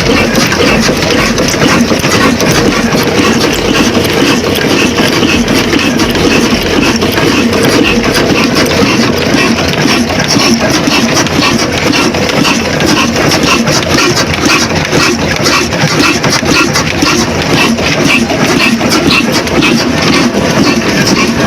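Big old desi diesel engine running steadily, its firing strokes coming fast and even.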